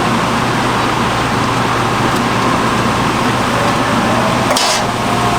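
Hot oil sizzling steadily in a street-stall deep fryer as churros fry, with a brief sharper hiss about four and a half seconds in.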